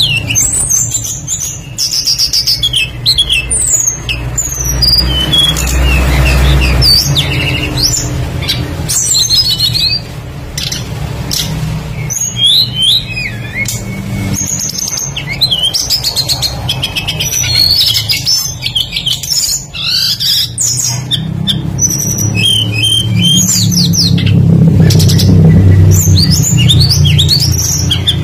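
A tledekan songbird singing a long, varied, rapid song of high whistled glides and chirps, over a low steady rumble.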